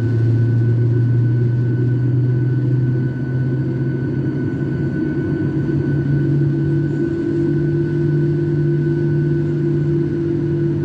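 Airliner's jet engines running at low power on the ground before takeoff, heard inside the passenger cabin: a steady drone with a deep hum that rises slightly in pitch a few seconds in, and a faint high tone above it.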